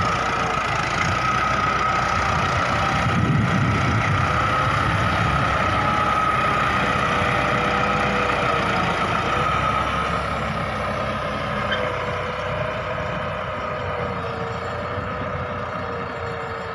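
Massey Ferguson 385 tractor's diesel engine running steadily while pulling a cultivator, with a steady high whine over the engine noise.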